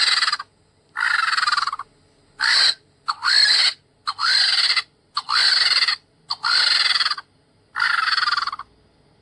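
Vulture calling: a series of about eight harsh, scratchy screeches, each under a second long, coming roughly once a second.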